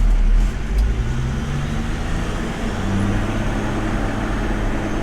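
Vehicle engine and road noise in traffic: a steady low engine drone whose pitch rises briefly about a second in, then settles.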